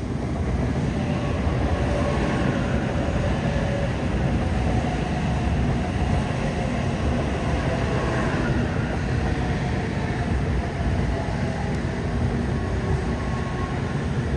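A train running on rails: a loud, steady rumble that builds over about the first second and then holds.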